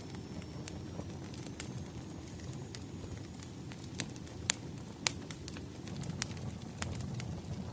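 Wood fire crackling: irregular sharp pops and snaps over a low, steady rumble of burning logs, with a couple of louder pops about halfway through.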